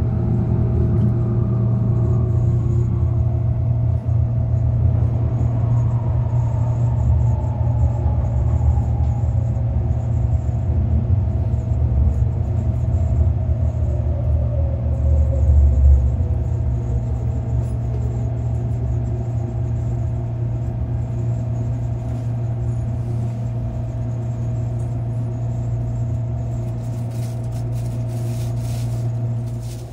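Inside an MTR Airport Express train slowing into a station: a low rumble with the traction motors' whine falling steadily in pitch for about fifteen seconds. Once the train has stopped, a steady hum remains.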